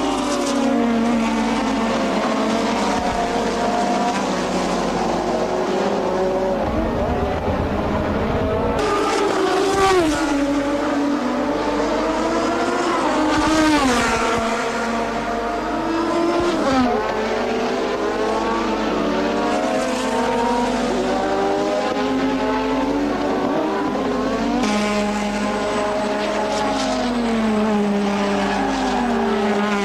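Several 1986 turbocharged Formula One cars running together at racing speed. Their engine notes overlap and repeatedly rise and fall in pitch as they accelerate, change gear and brake.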